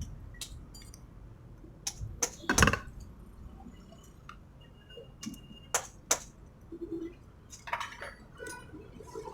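Scattered clinks and knocks of metal tools and parts being handled, the loudest about two and a half seconds in.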